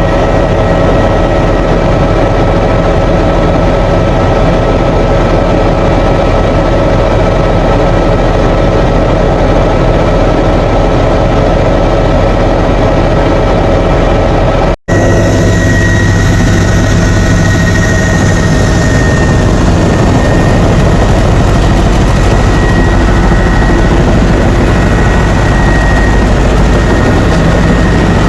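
Helicopter noise, loud and steady, with a steady high whine over the drone. It cuts out for an instant about halfway through, then resumes with a slightly different tone.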